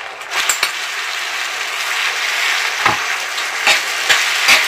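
Tuna kimchi fried rice sizzling in a hot frying pan as it is stirred with wooden chopsticks and a metal spoon, the steady sizzle broken by several short clicks and scrapes of the utensils against the pan.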